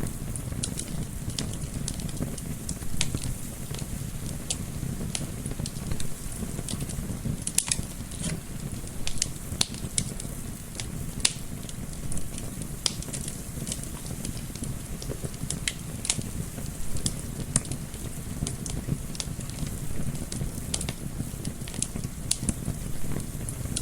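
Wood fire crackling, with frequent irregular sharp pops over a steady low rumble mixed with gentle wind.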